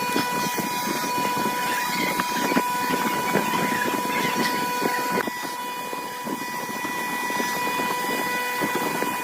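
Electric woodworking power tool running steadily with a high whine over a rough, noisy hum; its tone shifts slightly about five seconds in.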